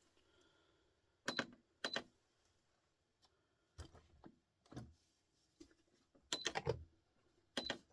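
Scattered light clicks and taps, singly and in small clusters, with near silence between them; the densest run comes about three-quarters of the way through.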